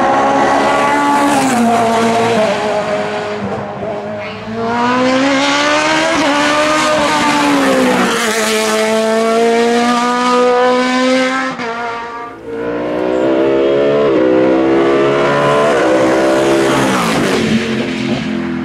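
Hillclimb race car engines at full attack, the revs climbing and dropping again and again through gear changes, with brief lulls about four seconds in and about twelve seconds in before the engine note rises again.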